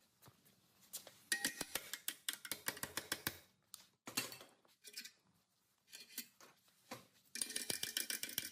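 Metal parts and hand tools clinking and clicking against each other in several quick bursts, some strikes ringing briefly.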